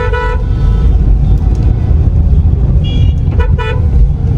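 Steady low road rumble of a car driving in traffic, with vehicle horns tooting at the start and again about three seconds in.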